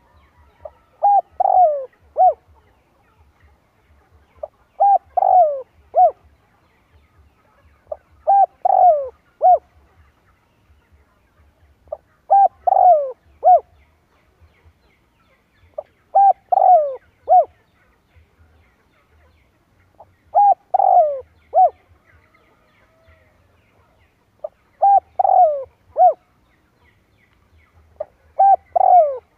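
Spotted dove cooing: a short phrase of about four notes, repeated eight times at roughly four-second intervals.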